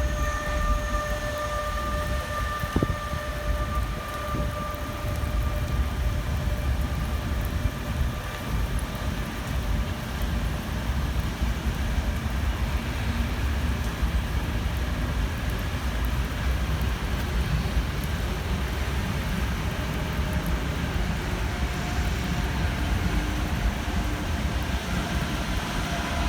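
A train running through the station with a steady low rumble; a few whining tones fade out in the first few seconds, and a faint whine comes in near the end.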